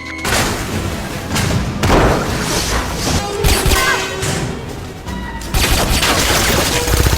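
Action-film soundtrack: loud crashes, booms and rapid impacts over music, getting louder and denser about five and a half seconds in.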